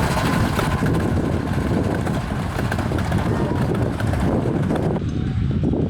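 Miniature steam train running, a steady low rumble with wind buffeting the microphone; the sound changes abruptly about five seconds in.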